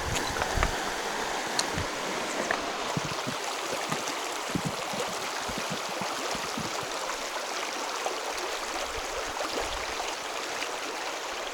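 Mountain river rushing over shallows: a steady, even rush of running water.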